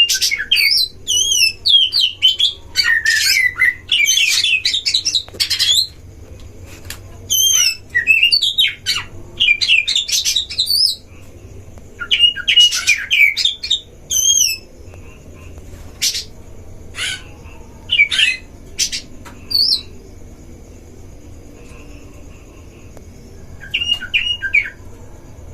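Oriental magpie-robins singing in a duel: loud, varied whistled glides and harsh chattering phrases in dense bursts, thinning to scattered single notes after about fifteen seconds, with a short burst again near the end.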